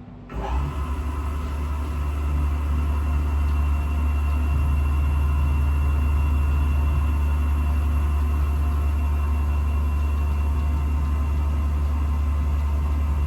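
Saw-sharpening machine's grinding wheel motor starting just after the opening and building up over a few seconds to a steady running hum, with steady high whining tones on top.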